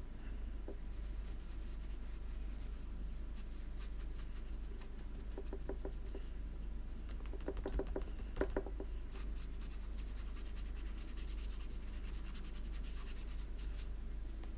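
Faint scratching of a watercolor brush working paint on paper, with a few light taps around the middle, over a low steady hum.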